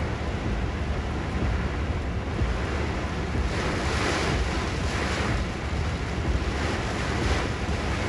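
Typhoon wind and heavy rain, with the wind buffeting the microphone in a steady low rumble. Gusts swell the noise about halfway through.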